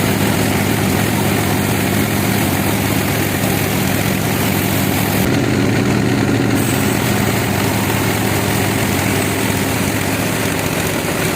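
A sawmill's engine running steadily at an even speed, a low continuous drone.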